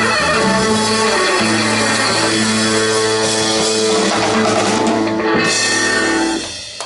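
Live rock band with electric guitar, bass and drum kit playing the final bars of a song, ending with a sustained chord about six and a half seconds in.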